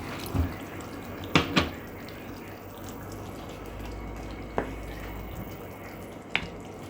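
Water being added to a pot of cooking meat curry, a steady watery hiss with a few sharp clinks of a utensil against the pot: two close together early on, then one more twice.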